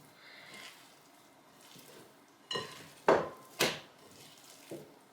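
Kitchen items being handled and set down: three sharp knocks a little past the middle, the loudest about three seconds in, and a fainter one near the end, over quiet room tone.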